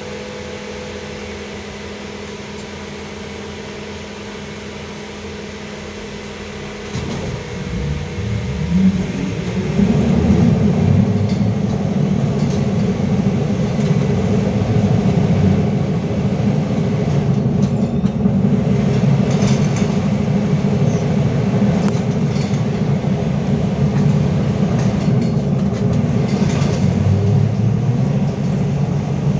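LiAZ-5280 (VZTM) trolleybus with a DK-213 traction motor: a steady electric hum while it stands, then about seven seconds in it moves off, the motor's whine rising as it speeds up. It then runs on with a loud, steady rumble and occasional knocks.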